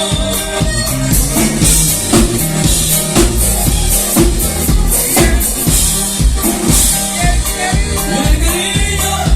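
Live norteño band playing an instrumental passage between sung verses, with a steady drum-kit beat and bass carrying the rhythm.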